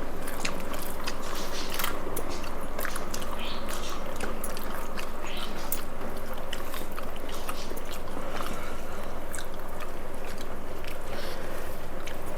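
Close-up eating sounds: chewing, with many small, sharp mouth and food clicks scattered throughout, over a steady background hum.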